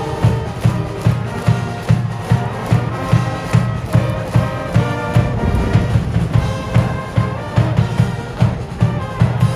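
A baseball cheering section's brass band and drums playing a cheer song, with a steady bass drum beat at about two strokes a second under the brass.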